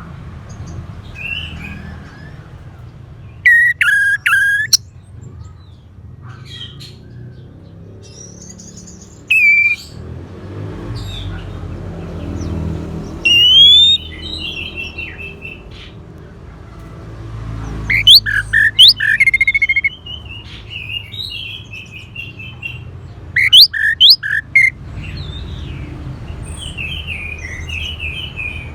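Orange-headed thrush song: phrases of clear whistles, rapid warbled runs and sharp high notes, broken by short pauses.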